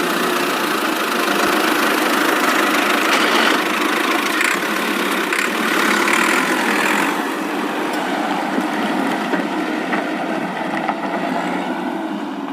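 Vehicle engine sound effect running steadily, dubbed over a toy vehicle being driven.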